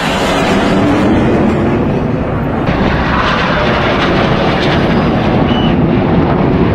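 Loud engine noise of display jets flying past overhead, a steady rushing sound that grows fuller and brighter about a third of the way in.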